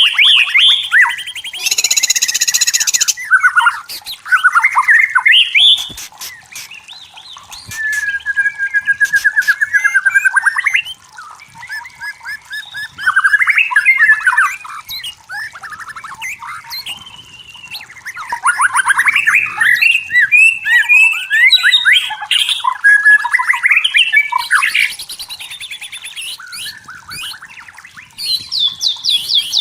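White-rumped shama singing: a run of fast, varied phrases of rapid trilled and sweeping notes, with a harsh, scratchy burst about two seconds in and another near the end.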